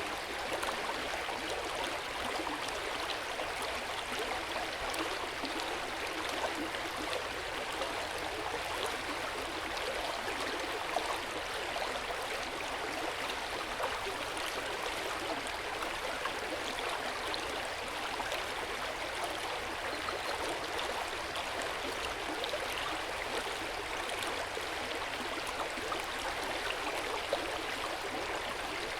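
Hot spring water flowing and splashing in an open-air bath: a steady, even rush of water with many small splashes and gurgles through it.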